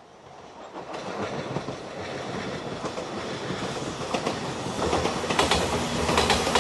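JR Shikoku 8000 series electric limited express train approaching and passing close by, its running noise building steadily. From about four seconds in, its wheels clack over rail joints.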